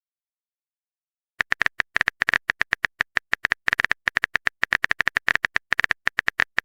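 Smartphone on-screen keyboard typing clicks: a rapid, uneven run of short clicks. It starts about a second and a half in and goes on to the end.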